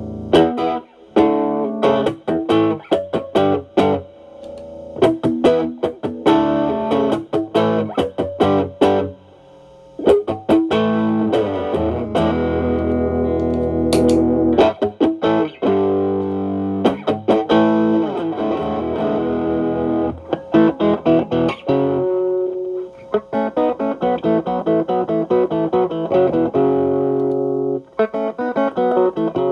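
Stratocaster electric guitar played through the Xotic AC Plus overdrive pedal's channel B, gain at about 10–11 o'clock, into a Marshall Valvestate amp: overdriven picked notes and chords, with brief pauses about nine seconds in and near the end.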